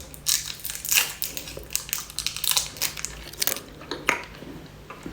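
A plastic sweet wrapper crinkling and crackling in irregular bursts as it is handled and opened.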